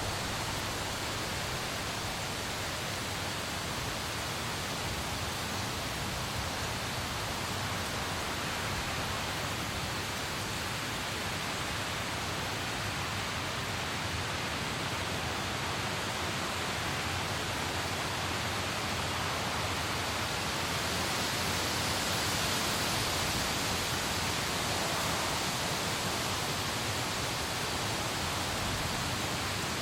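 Steady rain falling: an even hiss that swells slightly about two-thirds of the way through.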